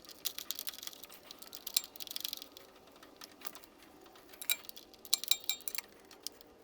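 Scattered light clicks and small metallic clinks from hand work on a leaking coolant hose and its clamp, with a few brief ringing pings about two-thirds of the way through.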